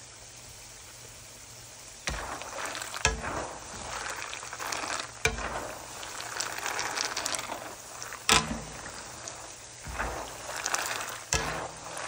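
Raw peanuts and garlic frying in hot oil, sizzling steadily. From about two seconds in the sound grows louder and uneven as a utensil stirs them, knocking sharply against the pan several times.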